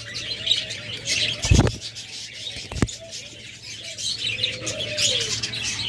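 Aviary full of small cage birds chirping continuously, with soft dove coos mixed in. Two dull thumps come about a second and a half and about three seconds in.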